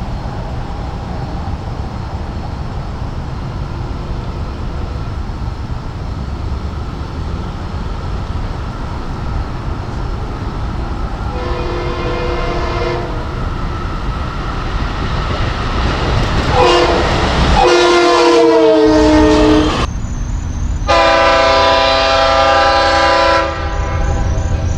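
Train horn sounding three blasts, a short one, then two longer ones, over the steady rumble of an approaching train that grows louder.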